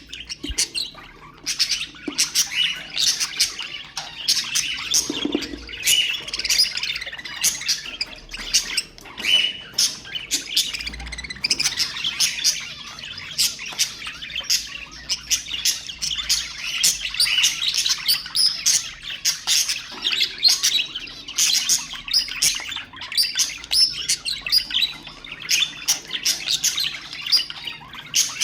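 Budgerigars chirping and chattering continuously, with rapid overlapping high chirps and warbles.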